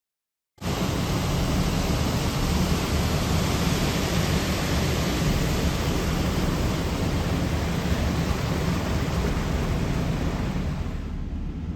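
Steady loud rush of a flooded river, a roar of fast high water with a deep rumble underneath, starting abruptly just after the start; the hiss in it fades near the end.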